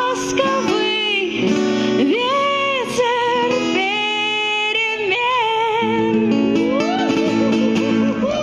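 Woman singing with acoustic guitar accompaniment, holding long notes with vibrato over strummed chords.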